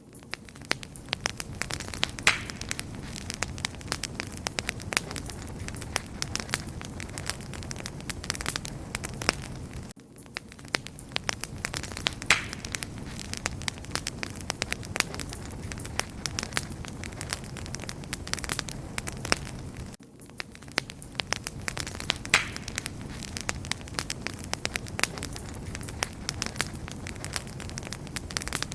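Wood fire crackling and popping steadily over a low rumble of the flames. It is a recording of about ten seconds played over and over, with a brief dip in level at each join.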